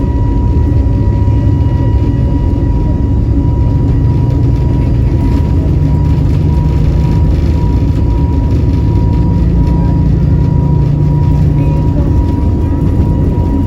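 Steady cabin noise inside an Airbus A320neo (CFM LEAP-1A engines) in flight: a loud low rumble of engines and airflow with a thin steady high whine.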